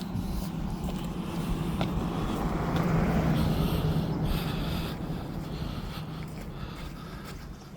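A road vehicle passing by: its engine hum and tyre noise swell to a peak about three seconds in, then fade away.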